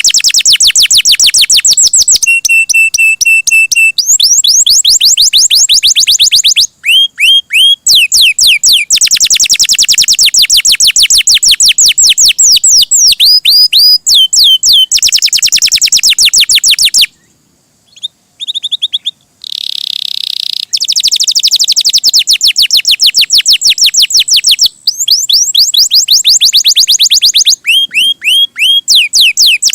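Domestic canary singing loudly: a fast, continuous song of rapidly repeated trills and sweeping notes, with one held note early on and a short pause just past the middle.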